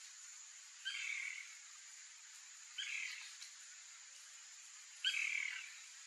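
A bird gives three short calls, about two seconds apart, the last one the loudest, over a faint steady high-pitched background tone.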